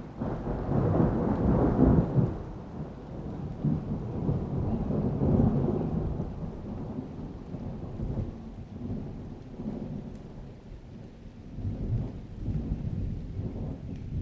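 A long roll of thunder that breaks in suddenly, loudest in the first two seconds, then rumbles on low with further swells, over rain.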